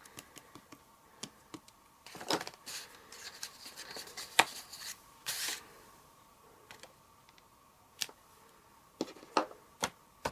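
Light taps, clicks and short paper rustles of hands handling a photopolymer stamp, ink pad and card stock: inking the stamp and pressing it onto the card. The rustling clusters about two to five seconds in, with a few sharper clicks near the end.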